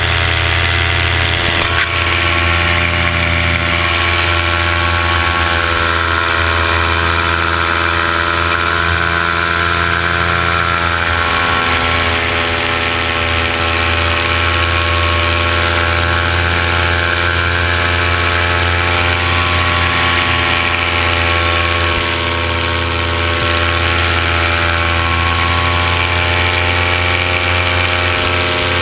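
Camera drone's electric motors and propellers humming steadily in flight, the pitch drifting slightly as the motor speeds change.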